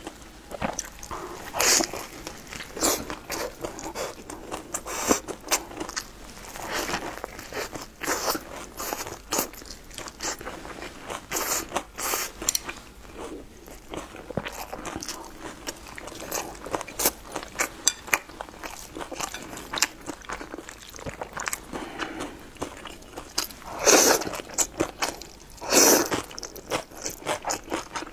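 Close-up eating sounds: biting and chewing on a crisp, sesame-topped fried flatbread, with crunching and wet mouth noises. Near the end come a few louder bursts as wide noodles in chili oil are slurped.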